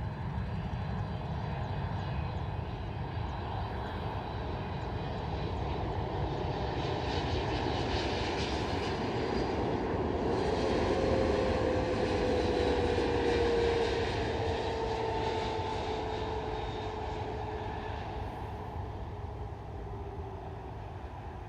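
Boeing 777 jet airliner's twin GE90 turbofans passing by: the roar swells to its loudest about halfway through and then fades, with a whine that falls in pitch as it goes past.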